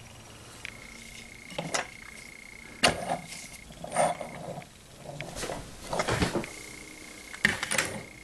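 Handling noise: a few scattered light knocks and clicks, and a faint steady high-pitched whine underneath.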